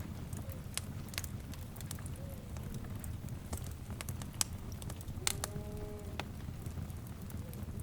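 Crackling fire: a steady low rumble with scattered sharp pops and snaps, and a brief animal call about five seconds in.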